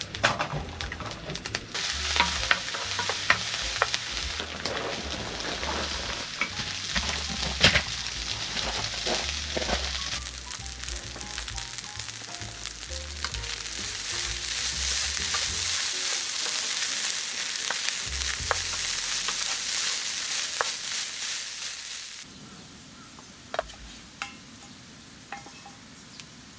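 Lobster fried rice sizzling in a hot pan while it is stirred, with frequent clicks and scrapes of the utensil against the pan. The sizzle cuts off suddenly about three-quarters of the way through, leaving a few faint clicks.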